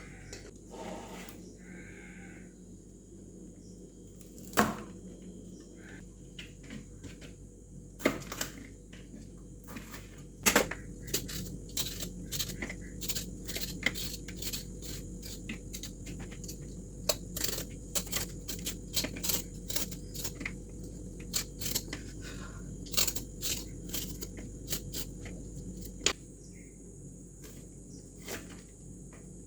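Irregular sharp clicks and knocks, a few at first and then many in quick succession, over a steady low hum and a high steady whine.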